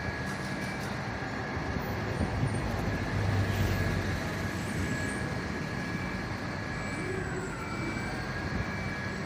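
A large vehicle's engine running steadily, with a thin high whine that dips briefly in pitch near the end.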